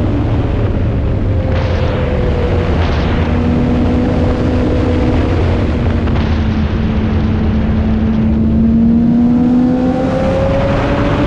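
Motorcycle engine running at speed under way, its note dipping a little about two seconds in and climbing slowly near the end, with heavy wind rush over the microphone.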